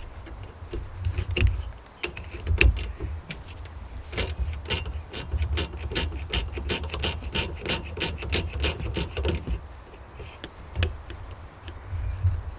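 Hand ratchet wrench clicking in quick, even strokes, about five clicks a second, for about five seconds from about four seconds in, as it works a fastener. A few scattered knocks of tools on metal come before and after.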